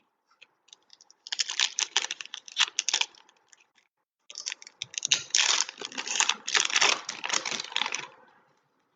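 Trading card packs and cards being handled at close range: two spells of crisp crinkling and rapid clicking, the first about two and a half seconds long and the second about four, with a short pause between.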